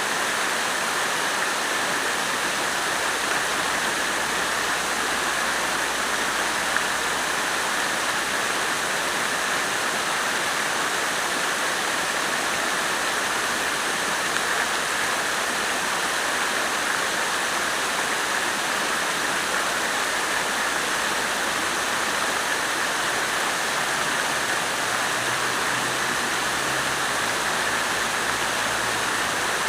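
Water fountain splashing steadily, falling water running without a break.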